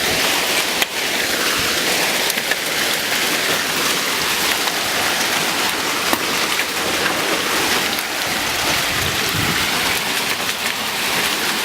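Hailstorm: hailstones and heavy rain pelting down, a dense steady hiss dotted with sharp clicks of single stones striking.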